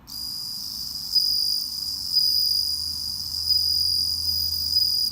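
Japanese bell cricket (suzumushi) singing a continuous high, ringing trill, starting suddenly.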